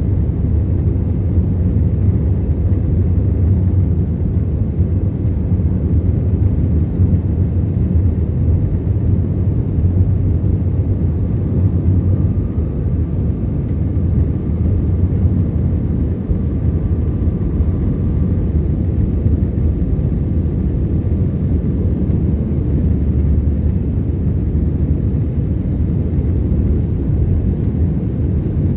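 Steady low drone of an Airbus A321-211's CFM56 engines and airflow, heard inside the passenger cabin during the climb after takeoff. A faint thin whine sits above the drone through the middle stretch.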